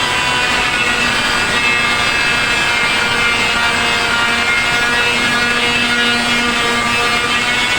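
Power sander running steadily, sanding a ceiling, with a continuous motor whine.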